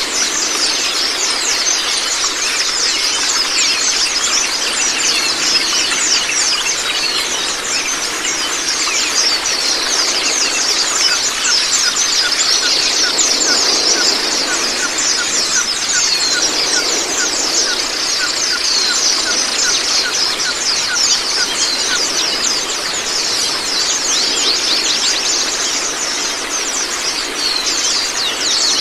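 White-eyes (Zosterops) singing in a dense, continuous chorus of rapid high chirps and trills, with a run of short repeated lower notes in the middle.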